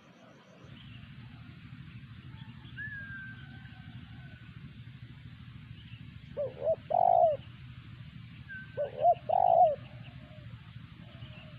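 Spotted dove (terkukur) cooing: two phrases, each of two short notes followed by a longer note, about six and nine seconds in, over a steady low rumble.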